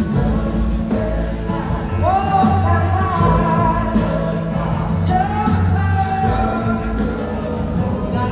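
Live soul-rock band performing, with a female lead voice singing over bass, drums and guitar. The sung line slides up into long held notes about two seconds in and again about five seconds in.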